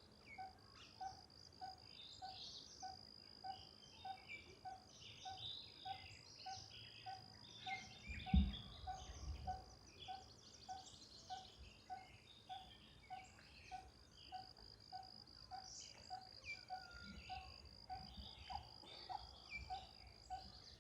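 Faint outdoor nature sound: a steady high insect drone, a low call or note repeating evenly about one and a half times a second, and scattered bird chirps. One low thump about eight seconds in.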